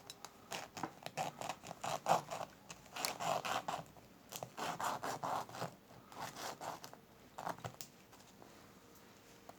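A hand tool scraping or cutting a small part: a string of short strokes in several quick bursts, stopping shortly before the end.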